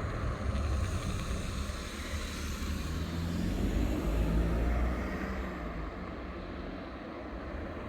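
Recycling truck's diesel engine running as it moves along the street. It grows a little louder up to about five seconds in, then eases off.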